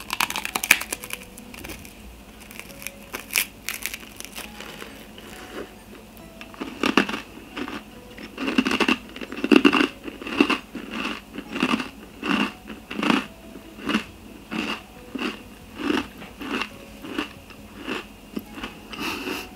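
A crisp, sugared bread rusk bitten and chewed close to the microphone. A burst of crackling crunches at the bite gives way, about seven seconds in, to steady rhythmic chewing, a little over one chew a second.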